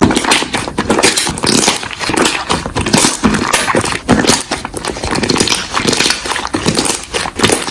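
Slime being squeezed and poked by hand: a fast, irregular run of wet clicks and pops.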